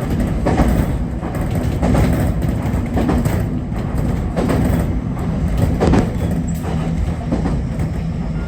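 JR Kyushu 811 series electric train running, heard from inside the car: a steady low rumble with a faint hum, and the wheels knocking over rail joints about once every second or so.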